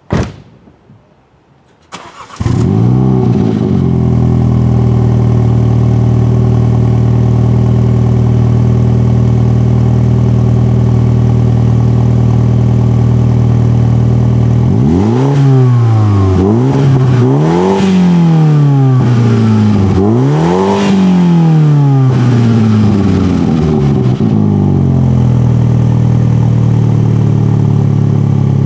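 2018 MINI John Cooper Works (F56) 2.0-litre turbocharged four-cylinder starting about two seconds in, flaring briefly and settling into a steady idle through its stock exhaust in Sport mode. About halfway through, several quick throttle blips rise and fall before it drops back to idle. A short loud noise comes right at the very start.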